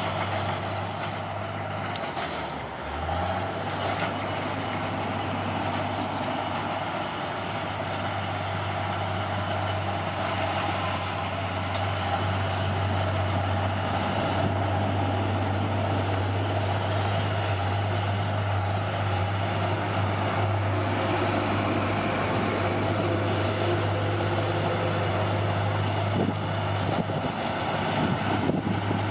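Caterpillar D6R bulldozer's diesel engine running steadily under work, with a brief drop in its note about three seconds in before it picks back up.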